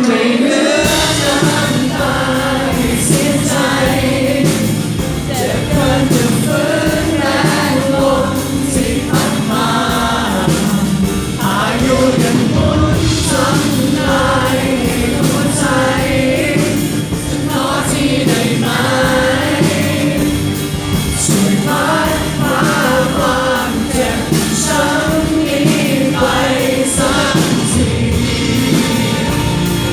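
Rock band playing live, with sung vocals over guitars and drums.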